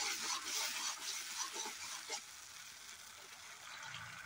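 Tomatoes frying in hot oil in an aluminium kadai, sizzling steadily, with a ladle stirring and scraping through them over the first couple of seconds before the sizzle settles quieter.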